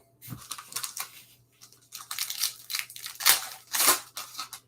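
Trading cards and their foil pack wrappers being handled: a run of irregular short crinkling, rustling rasps.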